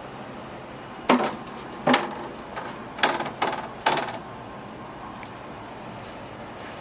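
About five sharp knocks or bangs in quick succession, spread over about three seconds, with no clear identity to the source.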